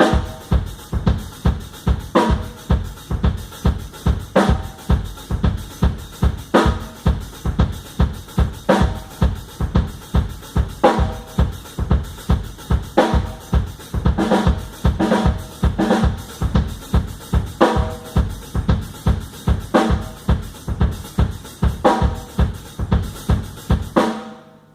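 Drum kit played alone in a steady, fast beat: bass drum hits about four times a second under snare strokes about once a second. It stops suddenly near the end.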